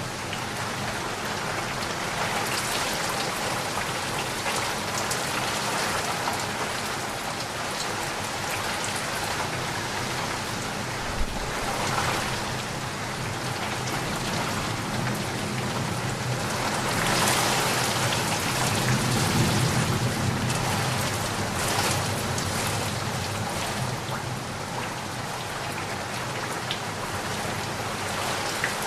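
Steady rain falling, a dense hiss of many drops with a few separate drop ticks, swelling louder for a few seconds past the middle.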